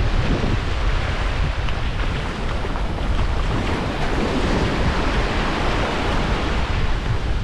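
Wind buffeting the microphone over surf washing on the beach: a steady rushing with a heavy low rumble, the wash swelling about halfway through.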